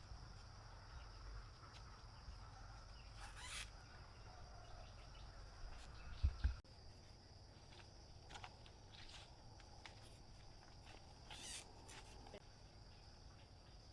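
Steady high-pitched drone of insects, with a few brief rustles and a short low thump about six seconds in.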